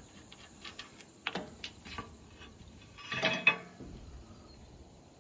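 Scattered light metallic clicks and knocks from parts being handled on an excavator, with a louder clattering scrape about three seconds in.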